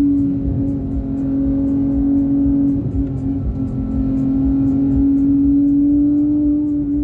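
Porsche 911 GT3's flat-six engine running at high, nearly steady revs while driving, heard from inside the cabin over tyre and road rumble. The engine note holds level and rises slightly near the end.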